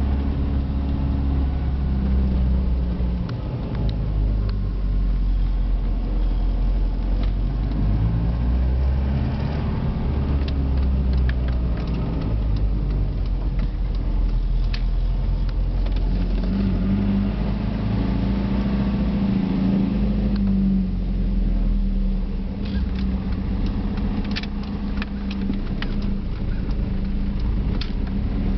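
Car engine and road noise heard from inside the cabin while driving at low speed. The engine pitch rises and falls several times as the car speeds up and slows, with a few sharp clicks near the end.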